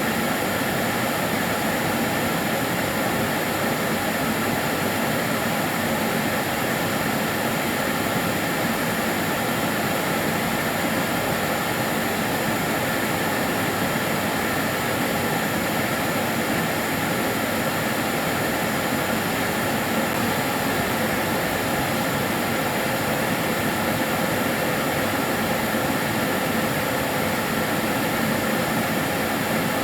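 Kärcher DS 6 Premium water-filter vacuum cleaner running steadily: an even rush of air with a few steady whining tones over it, unchanging throughout.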